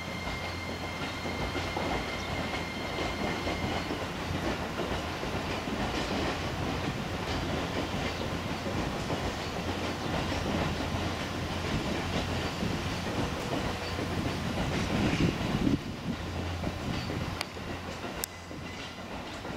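JR East E257 series electric multiple unit rolling slowly along depot track, its wheels clicking over rail joints under a steady running rumble. A faint steady high tone sounds for the first few seconds, and the noise peaks and then drops off near the end.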